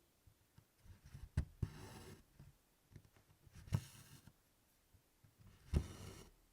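Stitching on 24-count Congress cloth: three times, about two seconds apart, the needle punches through the canvas with a sharp tick and the DMC floss is drawn through after it with a short scratchy swish.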